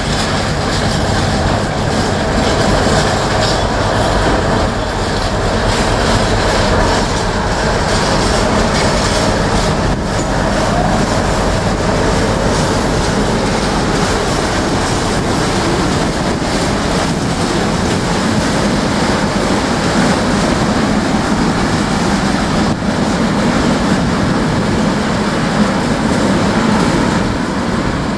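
Class 60 diesel freight locomotive, with its eight-cylinder Mirrlees engine, passing steadily at low speed with a train of bogie flat wagons. The engine's steady low hum is heard in the first few seconds, then the continuous rolling rumble of the wagon wheels on the rails as the wagons go by.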